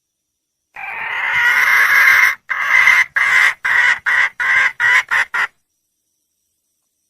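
Wild jungle hen (red junglefowl) calling for a mate: one long drawn-out note that grows louder, then a run of about eight short, clipped notes that get shorter toward the end.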